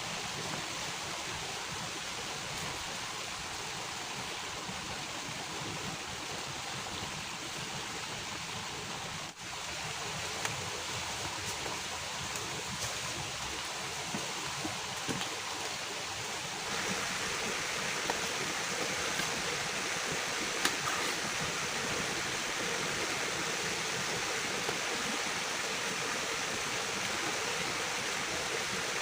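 Heavy rain falling in a steady rush of noise. It dips for a moment about nine seconds in, then steps up louder and brighter about seventeen seconds in, with a few faint ticks over it.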